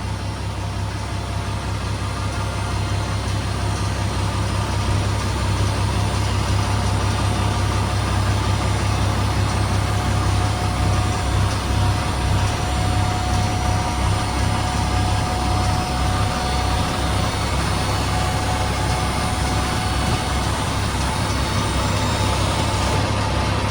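M35A2 deuce-and-a-half's multifuel diesel engine running steadily, working a little harder a few seconds in while the dump bed is raised. A thin steady whine rides over the engine through the middle of the lift.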